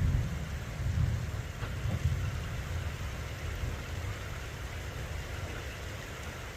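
Flash-flood water rushing down a wash, a steady hiss of running water. Low rumbling surges sit under it over the first two or three seconds, then die away.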